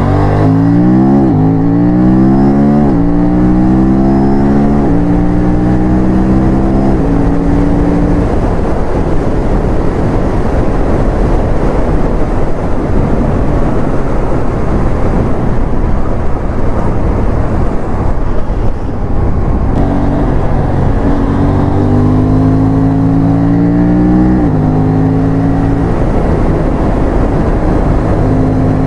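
Aprilia RS457's parallel-twin engine under hard acceleration, its note climbing and then dropping in steps as it is shifted up through the gears. For the middle stretch a steady rush of noise at speed masks the engine, before more gear changes near the end.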